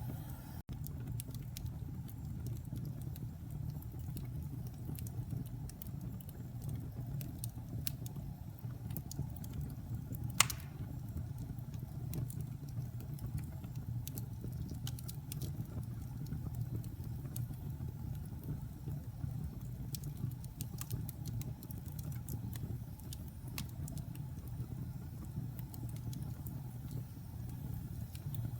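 Fire burning in a fireplace, crackling over a steady low rumble, with scattered small crackles and one sharp pop about ten seconds in.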